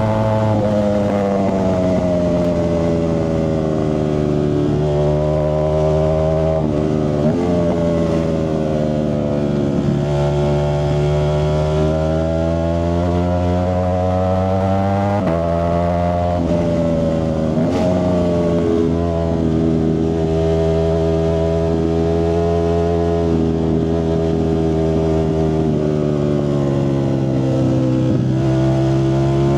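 Ducati Streetfighter V4S's V4 engine running through an aftermarket Zard exhaust. The engine note rises and falls slowly over several seconds, with a few sudden jumps in pitch.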